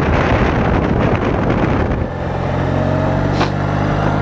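Wind rushing over the microphone on a moving motorcycle. About two seconds in the wind drops away and the BMW R80RT's 800 cc flat-twin boxer engine is heard running steadily at low revs.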